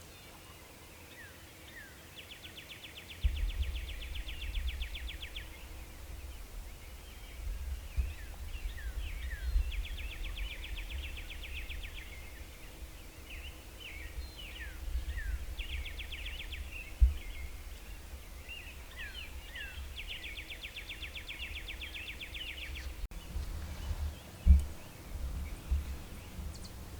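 Songbirds singing: four fast trills of about two to three seconds each, with short down-slurred chirps between them. Wind rumbles on the microphone from a few seconds in, and a few low knocks come near the end.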